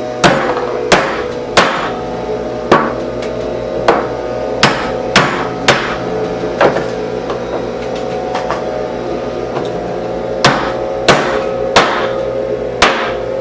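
Roller skate wheel bearings being knocked into the wheel hubs: a run of sharp, hard knocks at an irregular pace, with a pause in the middle, because the bearings will not slide in by hand.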